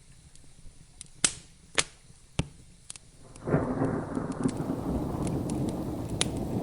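Wood fire crackling with a few sharp pops, then about halfway through a roll of thunder breaks in suddenly and keeps rumbling low.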